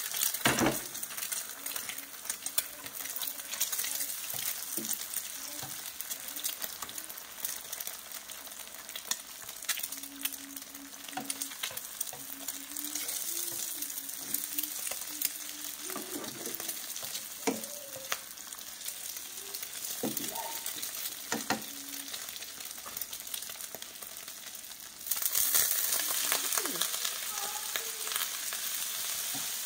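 Egg and sliced shallots sizzling in oil in a nonstick frying pan, with a spatula scraping and clicking against the pan as the egg is broken up. About 25 seconds in, the sizzle jumps louder as noodles go into the pan and are stirred.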